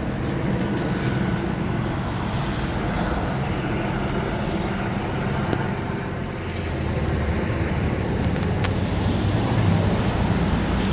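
Steady low engine drone of motor traffic, growing a little louder from about six seconds in.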